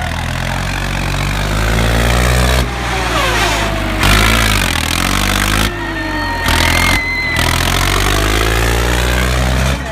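Tractor engine running under load and revving up and down, its pitch gliding. The sound changes abruptly several times, as at edits between clips.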